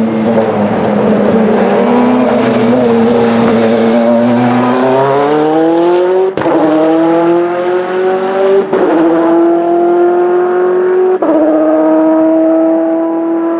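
Bentley Speed 8's twin-turbo V8 race engine accelerating hard, its pitch climbing and broken by three quick upshifts about six, nine and eleven seconds in, then holding a steady note near the end.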